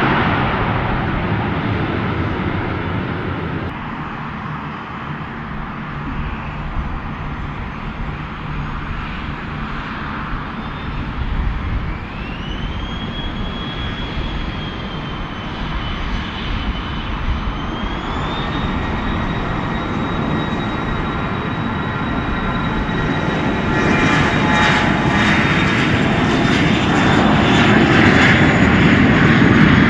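Airliner engines running, with a high whine that rises in pitch twice, about a third and then about halfway through, then holds steady. The sound grows louder near the end.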